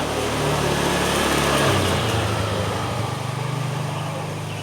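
A motor vehicle's engine passing close by, its drone swelling to a peak and then fading, with a shift in engine pitch about halfway through.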